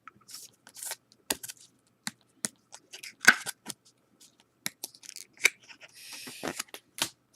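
Trading cards being handled and flipped one after another: a string of crisp snaps and clicks as card stock slides and taps against card stock, with a short rustle about six seconds in.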